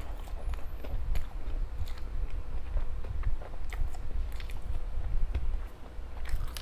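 A person chewing and biting soft, chewy homemade fish or veggie balls, with many small wet mouth clicks.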